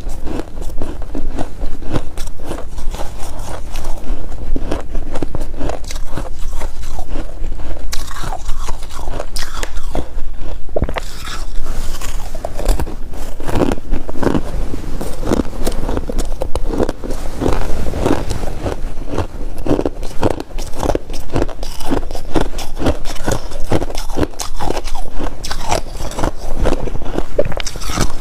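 Close-up crunching and chewing of freezer frost: a dense, irregular run of crisp crunches from bite after bite, over a steady low hum.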